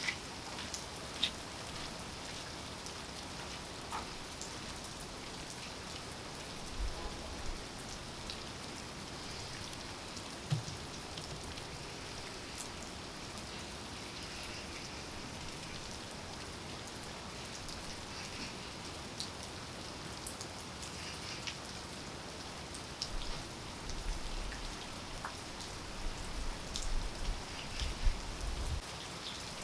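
Steady rain falling, with scattered individual drops ticking sharply close by. A few soft low thumps come through near the end.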